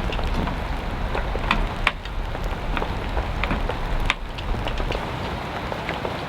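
Heavy rain falling, with many individual drops striking loudly close by.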